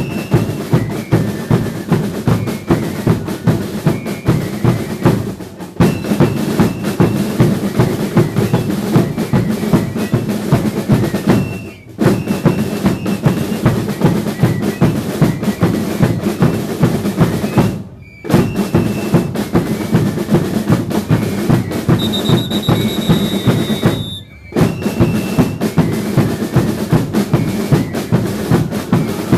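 Drum ensemble of a Chilean religious dance troupe playing a fast, driving beat in phrases of about six seconds, each broken by a short pause before the drums come back in. A brief high steady tone sounds over the drums a little past two-thirds of the way through.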